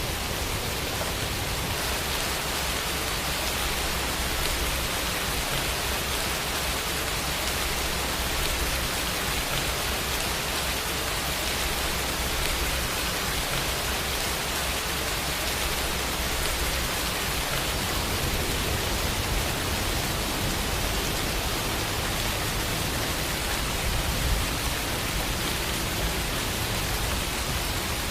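Steady rain falling, an even hiss of many drops with no other sounds, and one slightly louder drop or patter about 24 seconds in.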